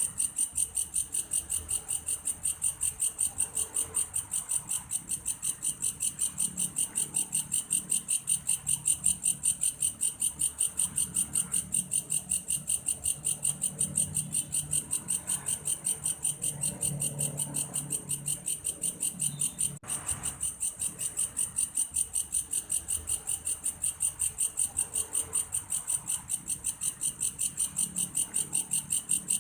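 Insect song from a belalang kayu (grasshopper): a steady train of rapid, evenly spaced high-pitched pulses, several a second, that goes on without a break, much like a cricket's chirping.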